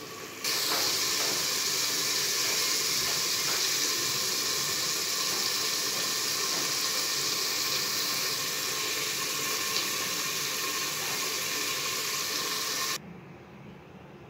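Chicken sizzling in oil and masala in an aluminium pot: a loud, steady hiss that starts suddenly about half a second in and cuts off shortly before the end, with a few faint clicks of a steel spoon.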